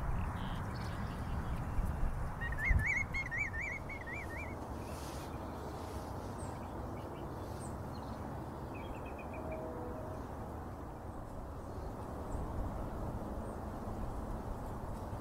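Outdoor ambience with a steady low rumble and a small bird's warbling trill about two and a half seconds in, lasting around two seconds, with a low thump just after it starts. A shorter, thinner trill follows near the middle.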